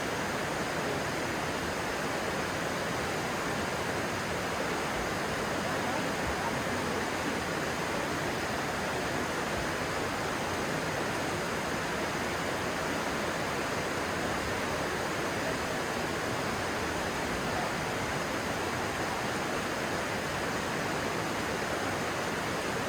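Stream water flowing steadily: an even, unbroken rushing noise.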